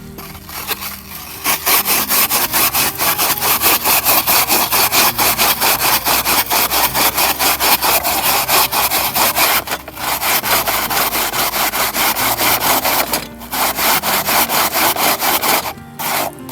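Rapid, regular back-and-forth rasping strokes, several a second, breaking off briefly three times, as of a hand saw or grater worked hard.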